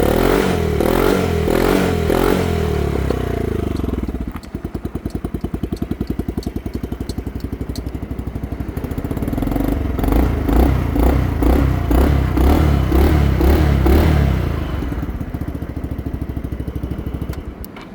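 Yamaha Majesty 125 Fi scooter's single-cylinder four-stroke engine through an upswept aftermarket muffler, revved in quick blips with the pitch swinging up and down, then dropping to a steady pulsing idle. In the middle it is blipped again several times before settling back to idle near the end.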